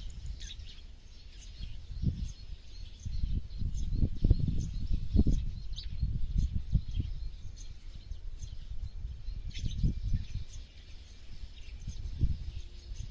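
Birds chirping in short, high calls over a steady rural background, with irregular low rumbling gusts of wind on the microphone that are louder than the birdsong.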